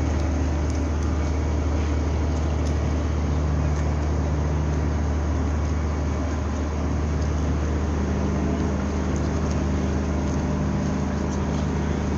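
Low, steady drone of a ship's engine with a constant hum, as a vessel manoeuvres to dock.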